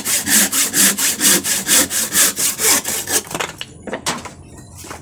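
Freshly sharpened hand saw cutting through wood in quick, even strokes, about two a second, stopping a little after three seconds in; a few short knocks follow.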